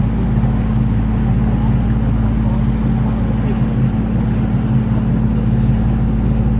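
Canal tour boat's motor running steadily, a low, even drone heard from on board the moving boat.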